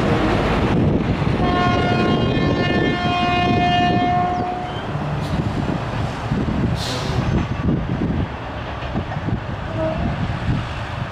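Passenger train coaches rolling away over the rails, their wheels rumbling and clacking. A locomotive air horn sounds one blast of about three seconds near the start, and there is a brief hiss about seven seconds in.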